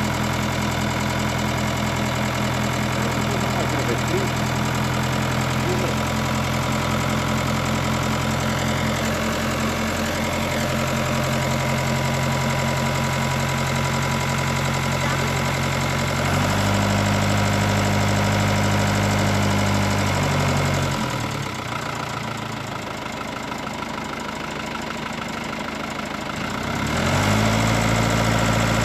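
Ford tractor engine running steadily, speeding up about halfway through, dropping back lower and quieter for several seconds, then speeding up again near the end.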